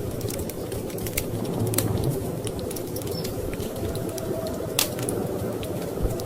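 Wood fire crackling, with irregular sharp pops over a steady low rumble. There is a louder pop a little under two seconds in and another near five seconds.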